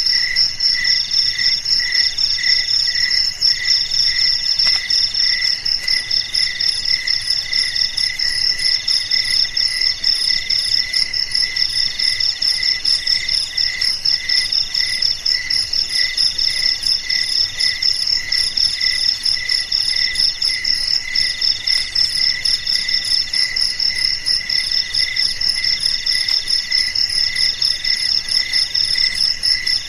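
A chorus of crickets chirping steadily, several at once at different pitches: a lower chirp pulsing a couple of times a second, a higher one in long trills broken by short pauses, and a high continuous trill above them.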